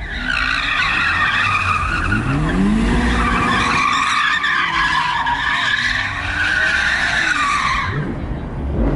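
A car's tyres squealing in a long, sustained screech as it does a burnout or spins donuts, with its engine revving up and down underneath. The screech stops about a second before the end.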